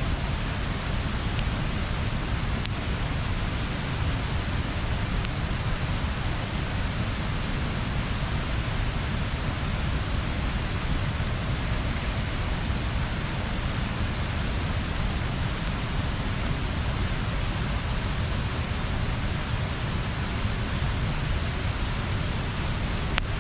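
A wood bonfire burning: a steady rushing noise with a few faint, sharp pops scattered through it.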